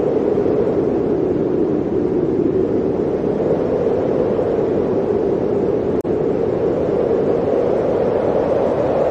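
Blizzard wind blowing in a steady, deep rush, with a momentary cut in the sound about six seconds in.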